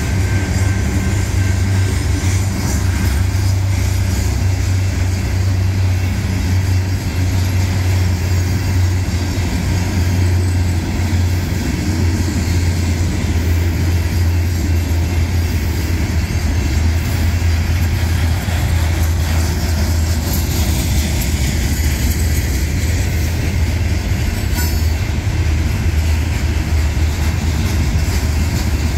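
Covered hopper cars of a freight rock train rolling past, a steady low rumble of wheels on the rails.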